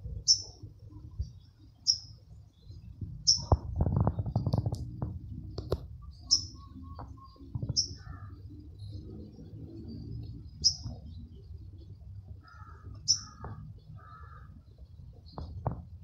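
Small bird giving single short, high chirps, about one every two seconds, with a brief low rumble of handling noise about four seconds in.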